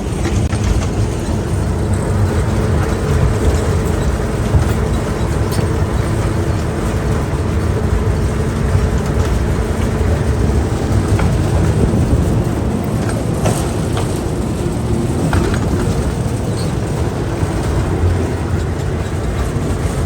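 Small park train running: a steady low rumble with a few scattered clicks and rattles.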